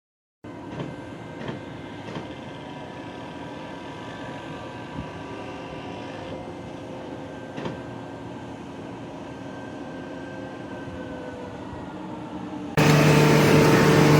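Steady vehicle-like rumble with faint humming tones and a few light knocks, after a short dropout at the start. Loud music cuts in near the end.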